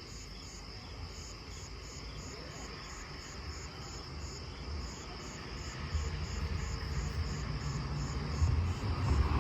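Crickets chirping steadily, about three chirps a second. A low rumble rises underneath from about two-thirds of the way in.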